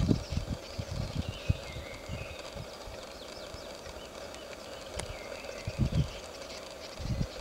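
Faint, high wavering bird calls over scattered low thuds, with one sharp click about five seconds in.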